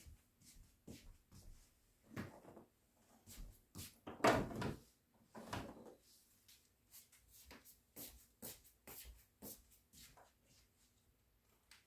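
Small household handling noises: a string of light clicks and taps, with a louder knock and rustle about four seconds in and another shortly after.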